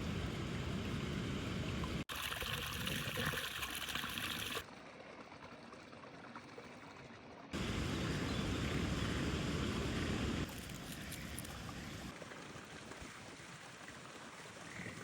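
Water running and trickling in a rice-paddy irrigation channel after heavy rain, heard in several short takes that cut abruptly between louder rushing flow and quieter trickling.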